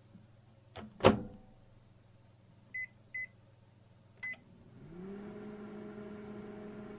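Microwave oven being started: a knock as the door shuts about a second in, then three short keypad beeps, two close together and one a second later. Near the end the oven starts running with a steady hum.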